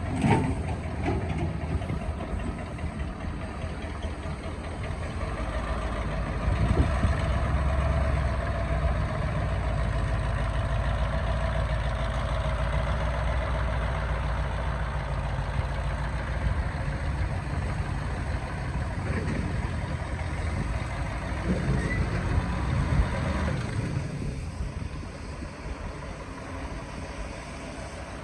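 Excavator's diesel engine running steadily. It grows louder about seven seconds in and eases off near the end.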